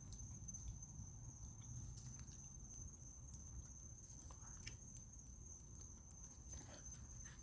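Faint steady high-pitched trill of crickets, with a few faint ticks over a low background rumble.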